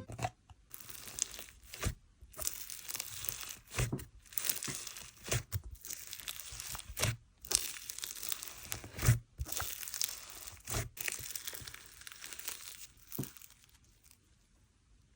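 Butter-fizz-texture slime being stretched and pressed by hand, making irregular crackling with sharp clicks and pops, dying away near the end.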